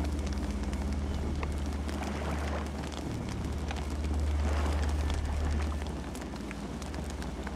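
Campfire burning, with scattered sharp crackles and pops over a steady low rumble that swells for a couple of seconds in the middle.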